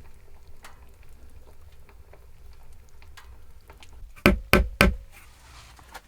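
Faint scattered clicks, then three loud knocks in quick succession about four seconds in.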